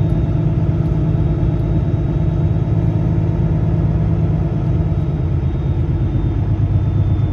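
Heavy engine running steadily at low speed, its low hum dropping slightly in pitch about three seconds in.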